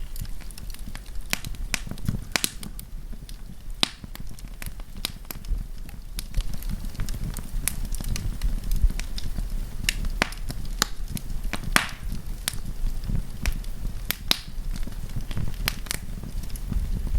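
Wood campfire burning with irregular sharp crackles and pops over a low rumble of flame.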